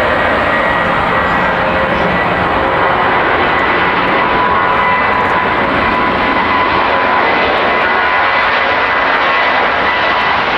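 Jet airliner's engines heard close by, a loud, steady rush of noise with faint steady whine tones through it.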